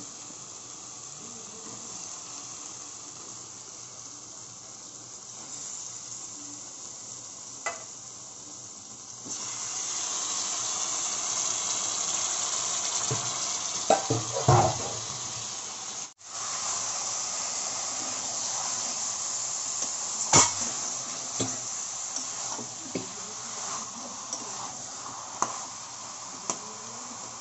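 Chicken and spice masala sizzling in oil in a pan while being stirred and fried down (kosha), with a spatula scraping and knocking against the pan. The sizzle turns louder about a third of the way in, a few sharp knocks come around the middle, and the sound cuts out briefly just after them.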